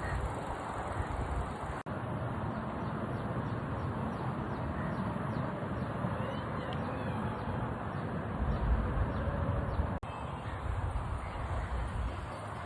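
Steady outdoor background noise with gusty low rumble, likely wind on the microphone, and a few faint bird chirps. The sound breaks off sharply twice, about two seconds in and again near ten seconds.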